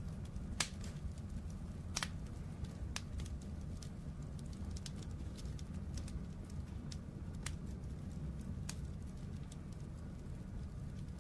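Fire burning in a fireplace: a steady low rumble with scattered sharp crackles and pops, the loudest two about half a second and two seconds in.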